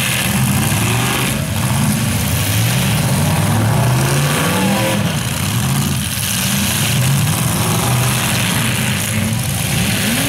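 Several demolition derby cars' engines running loud, revving up and down over and over as the cars push and ram each other.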